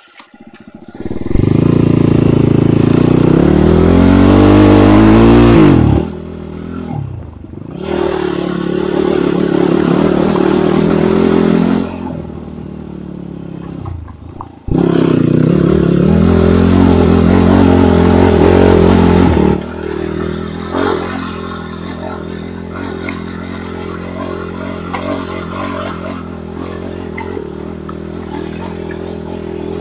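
Enduro dirt bike engine pulling hard off-road in three long bursts of revs, the pitch climbing through each, with brief dips between them. After that it runs more quietly and steadily.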